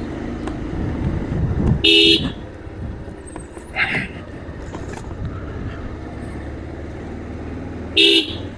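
Two short vehicle horn beeps, about six seconds apart, over steady road traffic and engine rumble.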